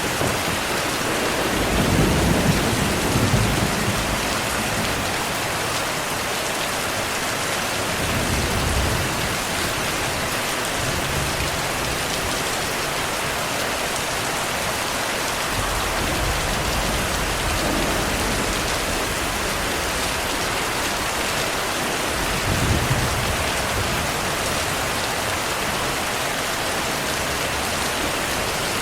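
Steady rain with low, rolling rumbles of thunder. The strongest rumbles come a couple of seconds in and again about two-thirds of the way through.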